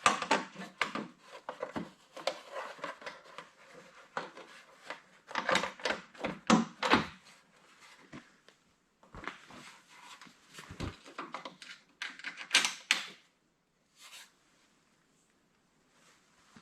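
Irregular clicking, rattling and knocking of hand tools and tail-light parts being handled, in quick clusters of clicks with short pauses between them.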